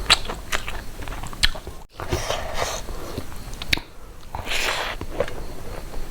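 Close-miked eating sounds: chewing and biting food, with many short wet mouth clicks. There is a brief drop-out just before two seconds in.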